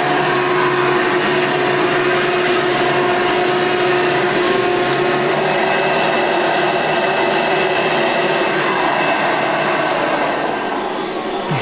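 Vacuum cleaner motor running steadily: a rush of air with a high whine over it. The level eases off a little near the end.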